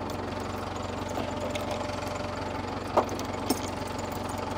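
Tractor engine running steadily at idle with an even, fast pulsing, with one sharp knock about three seconds in and a smaller one just after.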